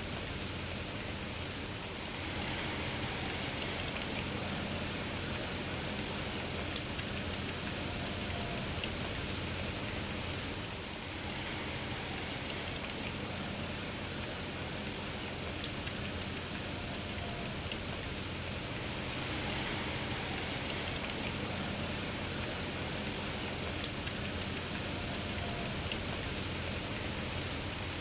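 Steady rain falling, swelling and easing gently, with three sharp, louder drop strikes spread through it.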